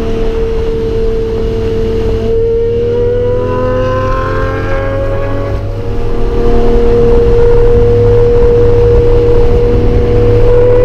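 Lamborghini Murcielago V12 running through a Fabspeed motorsport exhaust, at first holding a steady note. From about two seconds in, its pitch rises gradually; about halfway through, the pitch drops back abruptly and the sound gets louder, then holds steady and starts to climb again near the end.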